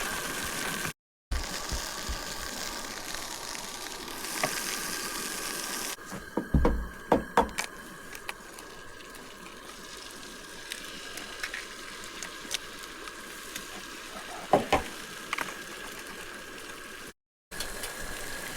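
Camp breakfast cooking in a pan: a steady hiss under scattered sharp clicks and knocks of a utensil against the pan, loudest in a cluster about six to seven seconds in. The sound drops out briefly twice.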